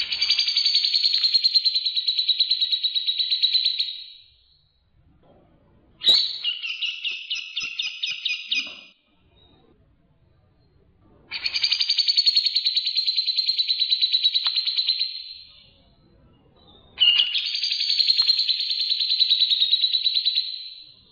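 Masteran birdsong recording mixing grey-cheeked bulbul (cucak jenggot) and Eurasian tree sparrow calls: four long, rapid chattering phrases of about four seconds each, separated by short pauses.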